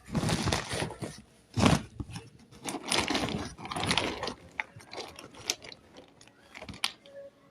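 Roasted nakhumat (edible clay) being bitten and chewed with dry, crisp crunches. Several loud crunching bites come in the first half, followed by quieter, scattered chewing crackles.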